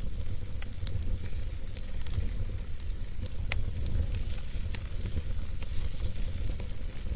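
Wood fire burning in a fireplace: a steady low rumble and hiss of flames with scattered crackles and pops, one sharper pop about three and a half seconds in.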